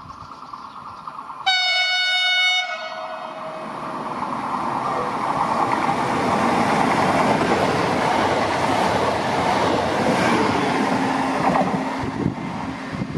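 A train horn sounds a single blast of about a second, then a train passes through the station at speed with a loud, building rush of wheel and rail noise.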